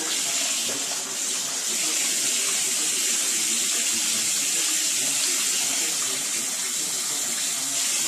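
Water running steadily from a tap, a continuous hissing stream.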